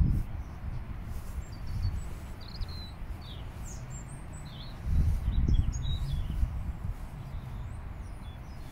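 Small birds chirping in short, scattered calls over a low rumble that swells about five seconds in.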